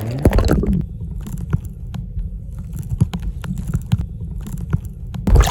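Sea water heard from a phone in a plastic waterproof pouch dunked under the surface: a splash about a second in, then muffled low rumbling with scattered knocks as the pouch moves in the choppy water, before it breaks the surface again with a splash near the end.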